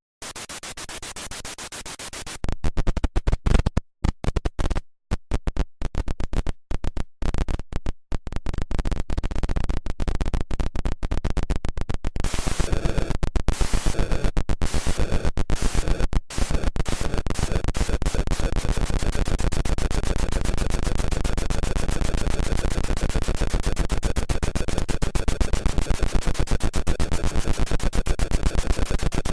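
Commodore 64 Super Huey helicopter sound effect: a synthesized motor starting with a noisy hiss, then rotor chop in broken pulses that come faster and faster as the blades spool up, settling about twelve seconds in into a steady fast chop.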